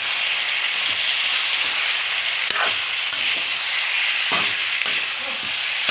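Chicken pieces and potatoes sizzling in hot oil in a pan, with a steady hiss and a few sharp clicks from stirring.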